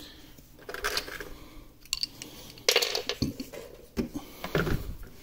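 Rattling clatter and knocks of a basket being handled and lifted out of a 12 V portable fridge-freezer, in several separate bursts.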